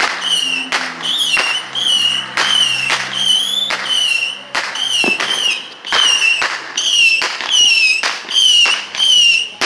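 Fireworks going off in a rapid series, about two bangs a second, each bang joined by a short warbling whistle, like a whistling repeater cake.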